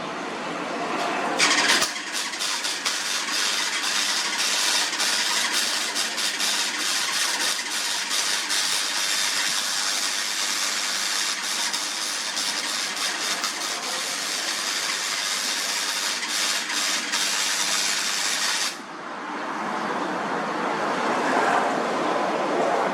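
Electric arc welding: the arc crackles and sputters steadily with dense fine popping, starting about a second and a half in and cutting off suddenly near the end. A duller steady noise is heard before the arc strikes and after it stops.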